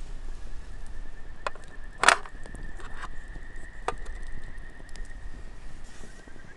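Wood burning in a small titanium twig stove, crackling with a few sharp pops, the loudest about two seconds in. A steady high-pitched pulsing trill runs underneath.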